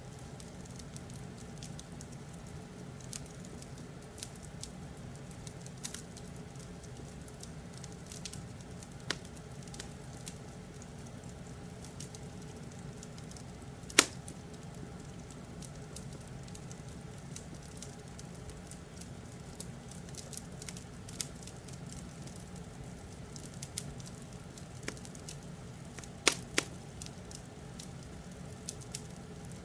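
Wood fire crackling in a fireplace: a steady low rumble with irregular small snaps, and a few louder pops, one about halfway and two close together near the end.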